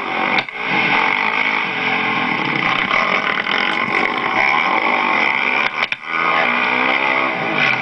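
Motocross bike engine running hard on the track. The throttle cuts briefly about half a second in and again around six seconds in, then the engine revs back up, rising in pitch.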